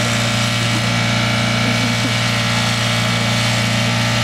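Station wagon engine held flat out at steady high revs during a burnout, its driven wheel spinning on the spot; the pitch holds without rising or falling.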